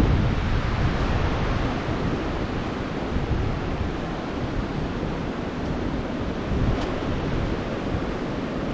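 Surf washing onto the beach with strong wind buffeting the microphone: a steady rush of waves under a gusty, rumbling wind noise.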